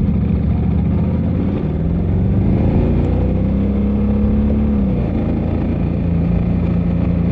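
Motorcycle engine running under way, its pitch rising about two seconds in, holding, then dropping near the five-second mark, with steady wind and road noise underneath.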